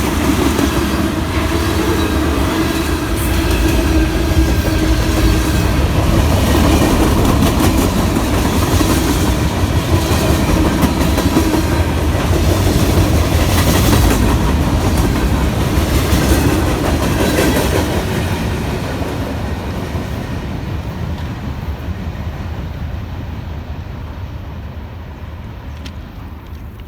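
Norfolk Southern train cars rolling past, wheels clacking over the rail joints, with faint wheel squeal. About two-thirds of the way through the sound starts to fade away as the train moves off.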